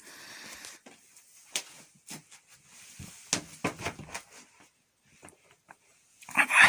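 Scattered light knocks, taps and scrapes from a makeshift ladder being handled and tested for steadiness, with a louder bump or rustle near the end.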